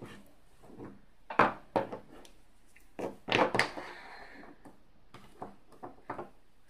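Dwarven Forge cavern terrain pieces being set down and knocked against each other on a table: scattered hard knocks and clacks, with a cluster about three seconds in.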